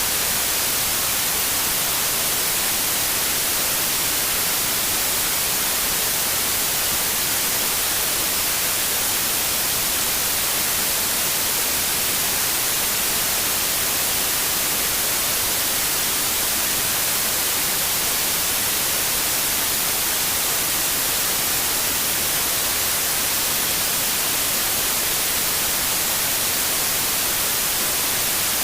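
Steady white noise: an even, unchanging hiss, brightest in the high end, with no change in level.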